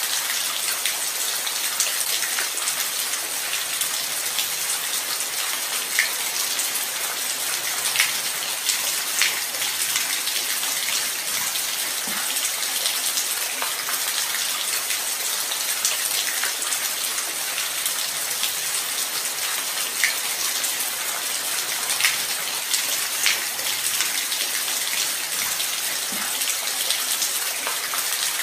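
Light rain falling steadily: an even hiss, with single drops ticking sharply close by every second or two.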